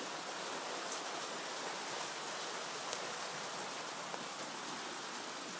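Hail and rain falling steadily, an even hiss of pelting with a few sharper ticks of individual stones.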